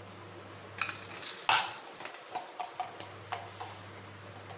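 A spoon knocking and scraping against a dish as ginger garlic paste is put on the fish pieces: a clatter about a second in, the loudest knock just after, then a run of lighter taps.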